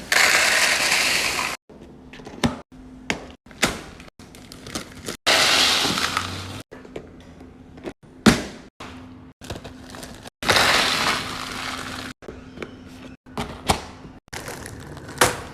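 Quick-cut fridge organizing sounds: plastic and glass containers set down, clinking and clicking shut, with sharp knocks between three longer hissy stretches of handling or pouring.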